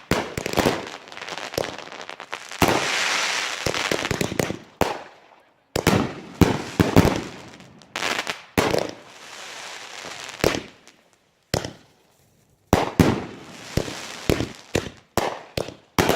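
Fireworks going off: a rapid run of sharp bangs with crackling between them, breaking off for about a second past the middle before more bangs follow.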